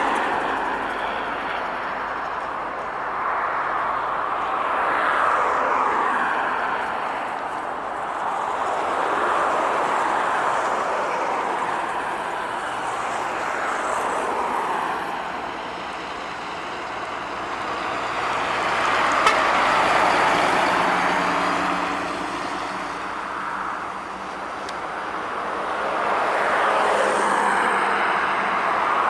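Road traffic with heavy trucks and cars passing one after another: tyre and engine noise swells as each vehicle goes by and fades again, every few seconds.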